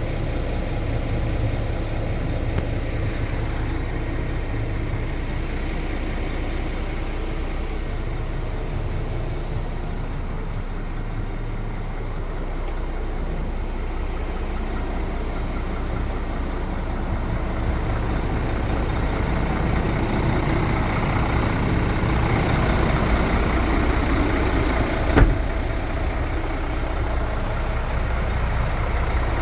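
Scania S500 truck's 13-litre straight-six diesel engine idling steadily, with one sharp click near the end.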